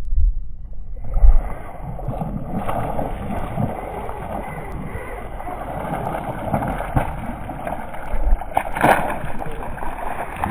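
Wind buffeting the microphone over a steady rushing noise, with low rumbles and scattered thumps and one brief louder burst about nine seconds in.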